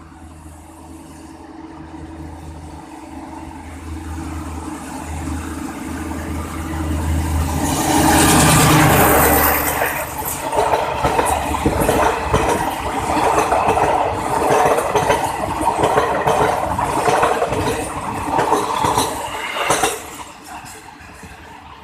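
Alsthom diesel-electric locomotive with a Pielstick diesel engine, running into a station: its engine drone grows steadily louder and is loudest as it passes about eight seconds in. The carriages then roll by with wheels clacking over the rail joints, and the sound falls away sharply about twenty seconds in.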